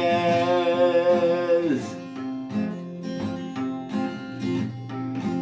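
A man singing to an acoustic guitar: he holds a long sung note for nearly two seconds, then the guitar plays on alone with plucked and strummed chords.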